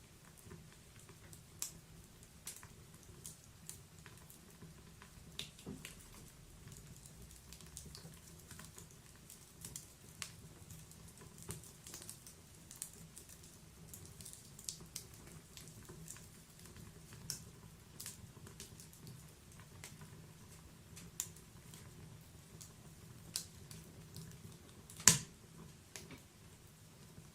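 Wood fire in a log-burning fireplace crackling, with scattered irregular pops and snaps and one much louder snap near the end.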